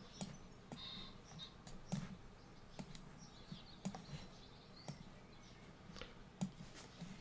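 Faint, irregular computer mouse clicks and handling, a dozen or so short clicks spread through the quiet.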